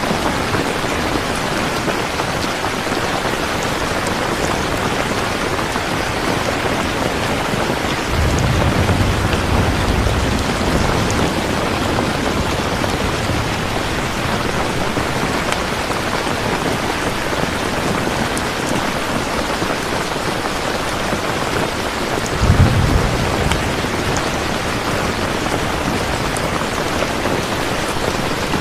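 Steady heavy rain, with two low rolls of thunder, one about eight seconds in and a sharper one about twenty-two seconds in.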